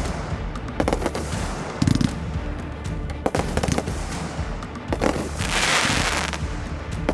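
Fireworks show: aerial shells going off in a string of sharp bangs, with a burst of hissing crackle a little after halfway, over a music soundtrack.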